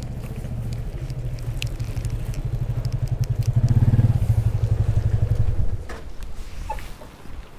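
A vehicle engine running with a low, fast pulsing beat. It grows louder to a peak about four seconds in and drops away sharply near six seconds, as a vehicle passing close by would.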